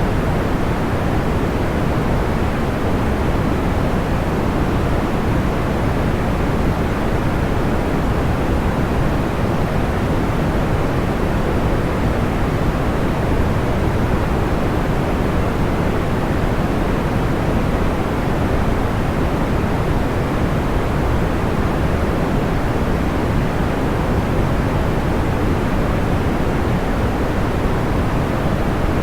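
Steady, soft white noise with a low, muffled tone, even and unchanging throughout, with no distinct pops or crackles.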